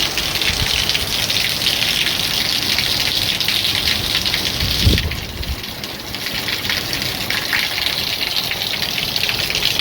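Hurricane rain pouring down hard, a dense steady hiss, with low gusty rumbling underneath. A thump comes about five seconds in, after which the rain hiss is a little softer.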